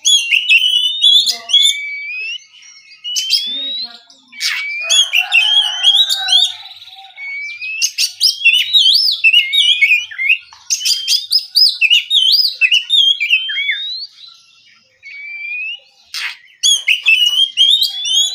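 Oriental magpie-robin (kacer) singing in the relaxed, clear 'ngeplong' style: phrases of rising and falling whistles with short pauses between them, and a few sharp clicks among the notes.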